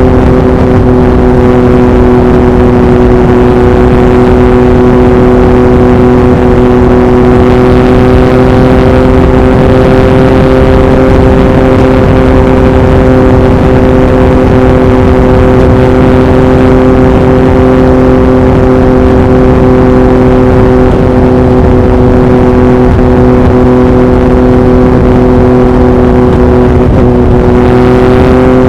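A 2021 Yamaha MT-09's 890 cc inline-three, heard through an Akrapovic racing exhaust, running at steady revs while cruising on the highway. Wind buffets the microphone.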